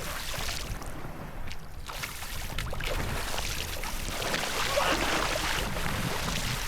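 Seawater splashing and sloshing in the shallows, over a low rumbling noise.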